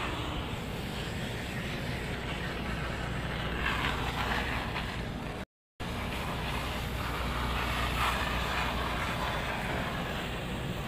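Steady machine hum with a hiss, cut by a brief gap of complete silence about halfway through.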